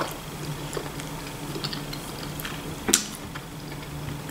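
A person chewing food with the mouth closed, with small mouth clicks and one sharper click about three seconds in, over a faint steady low hum.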